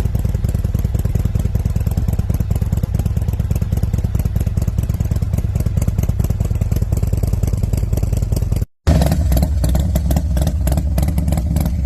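Harley-Davidson Road Glide's 124-cubic-inch V-twin running steadily through a Full Chrome Works 2-into-1-into-2 Dominator exhaust. Near the end the sound cuts out for a split second and a motorcycle engine resumes with more low end.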